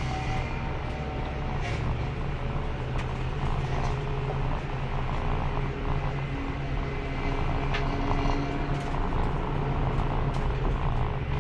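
Race car engine running at fairly steady revs, heard onboard, with a few short clicks and rattles over it.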